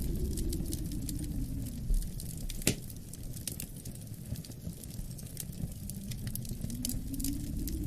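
Wood fire crackling in a fireplace, with scattered sharp snaps and one loud pop about a third of the way in, over a low rumble of wind that swells at the start and again near the end.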